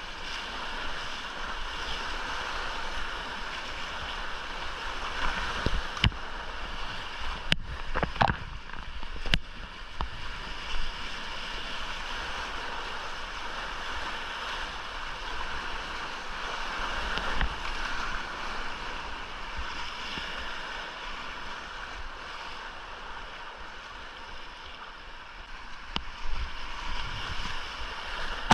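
Rushing whitewater heard from a kayak running the creek, a steady roar of water, with a few sharp knocks and splashes a few seconds in.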